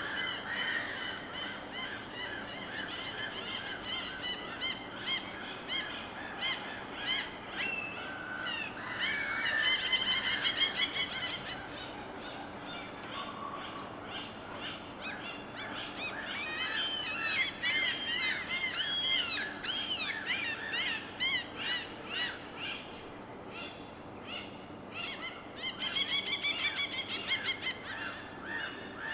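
Birds calling again and again in bouts, with many overlapping calls. The loudest bout is about ten seconds in, a long run of arching calls comes from about sixteen to twenty-one seconds, and a quick run of notes follows near the end.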